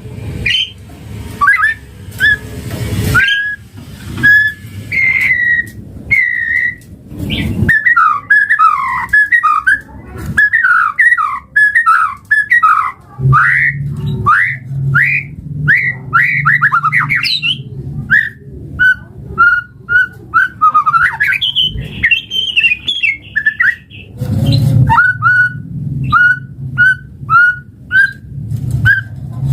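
White-rumped shama singing: a fast, varied run of whistled notes, turning after about 18 seconds into a string of short, repeated upswept whistles at much the same pitch. A low hum sits beneath parts of it.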